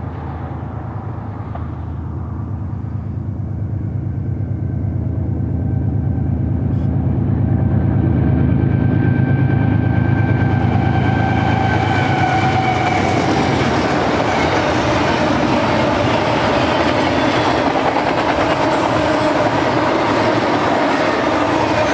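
BNSF double-stack intermodal train led by GE ES44C4 diesel locomotives passing close by: a low diesel drone grows louder as the locomotives approach and go by. After that the container cars roll past, with a steady rushing rumble and clatter of wheels on the rails.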